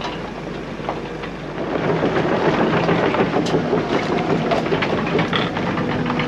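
Heavy diesel machinery engine running, its noise growing louder about two seconds in and staying up.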